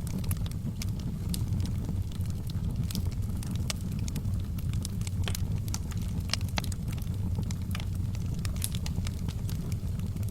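Wood logs burning in a fireplace, crackling with frequent irregular sharp pops and snaps over a steady low rumble of the flames.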